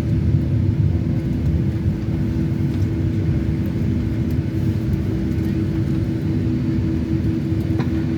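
Cabin noise inside a Boeing 757-300 on the ground just after landing: a steady low rumble of engines and airflow with a steady hum running through it.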